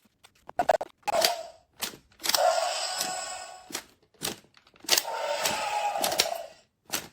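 Mattel Jurassic World Dino Trackers Tyrannosaurus rex toy playing its roar sound effects through its small built-in speaker: one short roar, then two longer roars of about a second and a half each. Sharp plastic clicks and knocks from its moving mechanism fall between the roars.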